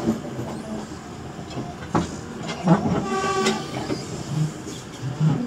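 Moving commuter train heard from inside the carriage: steady running rumble with sharp wheel knocks over rail joints about two seconds in, and a brief pitched tone a second later.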